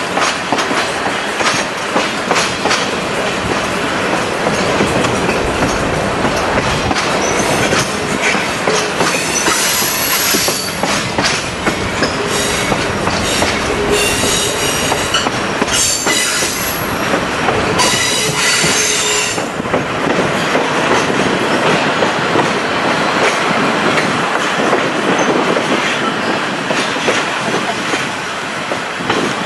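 Passenger train running on the rails with a steady rumble and many short wheel clicks. A high metallic wheel squeal comes in several bursts from about ten seconds in, dying away just before the twentieth second.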